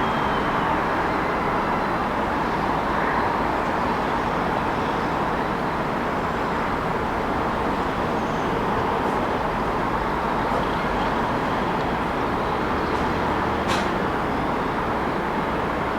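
Steady hum of city road traffic, an even wash of passing cars with no single vehicle standing out. A single brief click comes near the end.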